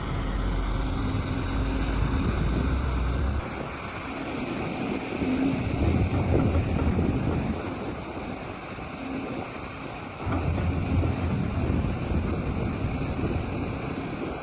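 Large diesel mining machines at work: heavy engine noise that swells and eases under load, with some wind on the microphone. The sound shifts abruptly about three and a half seconds in and again about ten seconds in.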